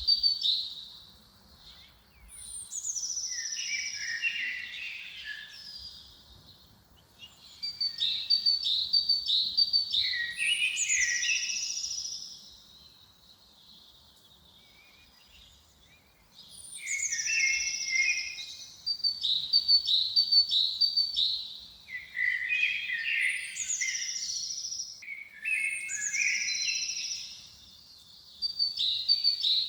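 A songbird singing in repeated phrases of two to three seconds, each a quick run of high notes and falling sweeps, with a pause of a few seconds near the middle.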